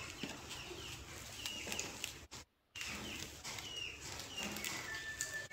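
A small bird chirping over and over in short falling chirps, over light crackling and clicking of banana leaves being handled and pressed around a rice-cake roll. The sound cuts out completely for a moment about halfway.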